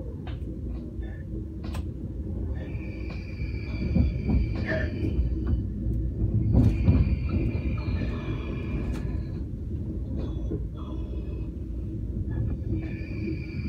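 Passenger train running on the track, heard from inside the carriage: a steady low rumble, with a high, steady wheel squeal coming in three times for two to three seconds each.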